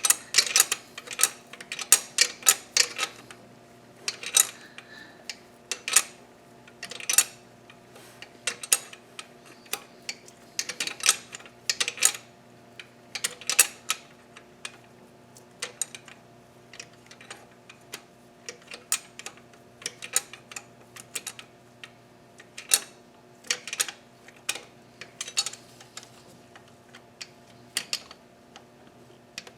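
Irregular metallic clicks and clinks of hand tools and small engine parts being handled, coming in clusters with short pauses, over a faint steady hum.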